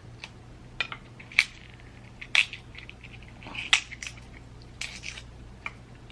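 Snow crab leg shells being cracked and broken open by hand: a string of sharp, separate cracks and clicks, roughly one a second.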